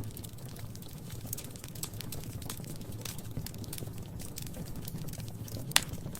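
Wood fire crackling in a fireplace: irregular small snaps and pops over a low steady rumble, with one louder pop near the end.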